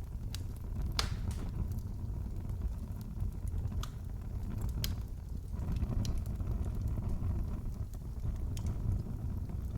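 Fireplace fire crackling: scattered sharp pops and snaps over a steady low rumble of burning, the loudest pop about a second in.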